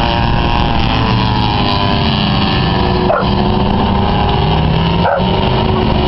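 Racing truck engines running together on a dirt oval, a steady loud drone whose pitch slowly falls and rises as the trucks lap.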